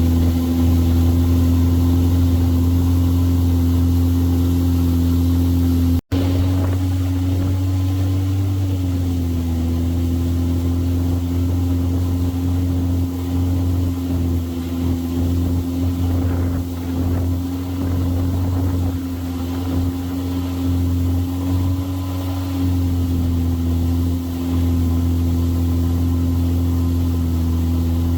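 Boat engine running steadily, a loud low drone with a steady hum above it; the sound cuts out for an instant about six seconds in, and the pitch dips slightly a few seconds later.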